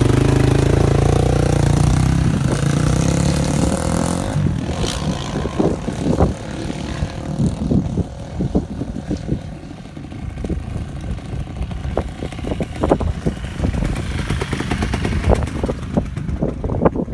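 Dirt bike engine running loud for the first four seconds or so, then quieter and uneven, with many short irregular pops and rattles.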